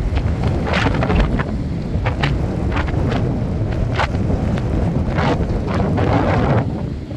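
Double-stack container cars of a BNSF freight train rolling past, a steady low rumble with short irregular bursts of higher noise, mixed with wind buffeting the microphone.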